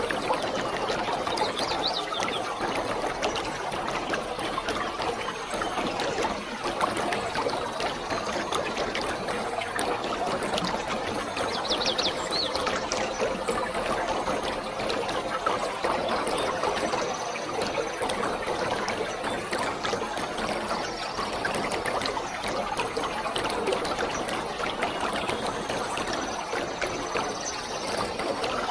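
Waterfall: falling water splashing in a steady, unbroken rush, with a couple of brief high chirps over it, about two seconds in and again around twelve seconds in.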